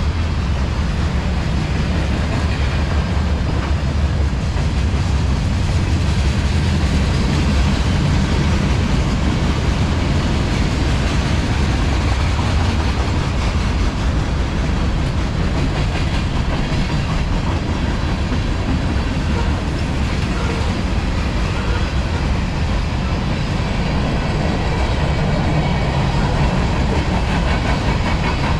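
A CSX manifest freight train's cars rolling past: a steady rumble of steel wheels on the rails, with some clickety-clack.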